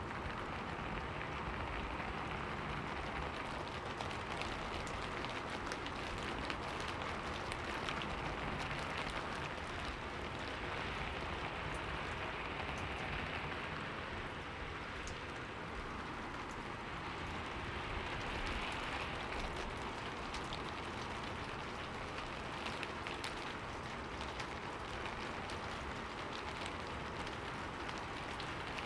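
Steady rain falling on a window, an even hiss with many fine drop taps, swelling and easing slightly.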